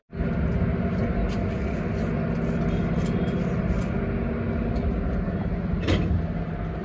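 Steady, even mechanical hum from a stationary passenger train and its electric locomotive at the platform during coupling, with a brief knock about six seconds in.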